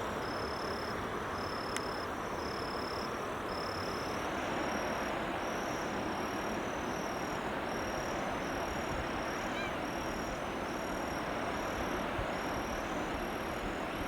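Outdoor rural ambience: a steady rushing noise, with short high-pitched chirps repeating at about one a second, joined later by other chirpers that overlap. A single faint click about two seconds in.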